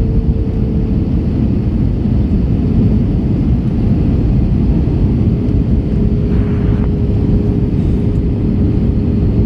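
Airbus A321 cabin noise: a steady rumble of the engines and airflow with a steady hum, and a brief hiss a little past the middle.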